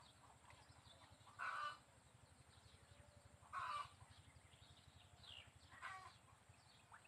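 Faint short bird calls, one every couple of seconds, over a low steady hum.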